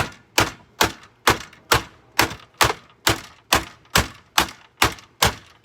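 Hammer blows striking a Hoover vacuum cleaner being smashed apart, a steady run of about a dozen sharp knocks at roughly two a second.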